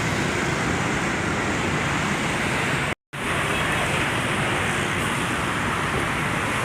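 Steady road traffic noise, cut off completely for a moment about three seconds in.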